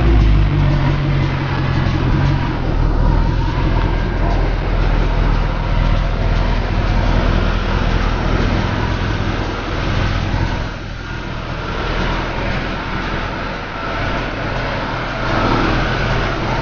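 A car being driven hard: its engine runs loud under load with heavy road and wind noise. It eases off about ten seconds in and pulls harder again near the end.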